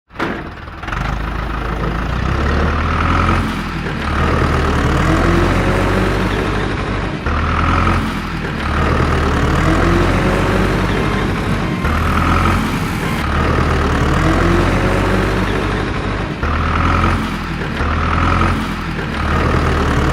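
Heavy engine-like running with a strong low drone. It starts abruptly and goes in a pattern that repeats about every four and a half seconds.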